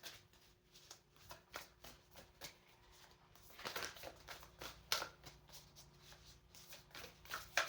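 A deck of oracle cards being shuffled by hand: a run of soft, irregular card flicks and rustles, with denser flurries about four, five and seven seconds in.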